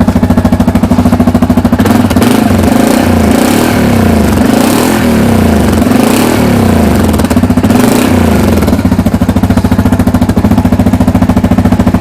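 Yamaha Grizzly 700 ATV's single-cylinder four-stroke engine running through its stock exhaust with tip. It idles, is revved several times for about six seconds, then drops back to a steady idle.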